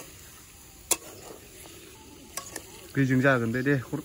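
Chicken and potato curry sizzling in a steel wok while a metal spatula stirs it, with a few sharp clacks of the spatula against the pan. Near the end a short voice-like sound, lasting under a second, is the loudest thing heard.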